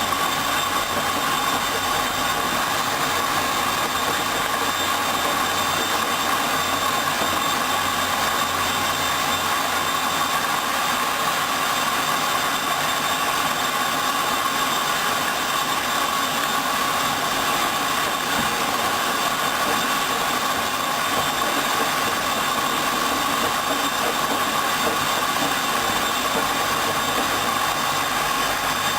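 Hoover Dynamic front-loading washing machine running a rinse cycle, a steady, even hum and hiss at constant level.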